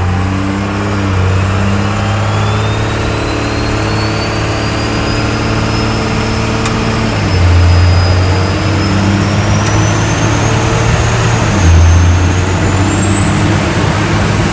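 1967 Fargo truck's twin compound-turbo Cummins diesel pulling hard at full throttle, a turbo whistle climbing in pitch through the run. The engine note changes twice, about seven and twelve seconds in, as it shifts gears.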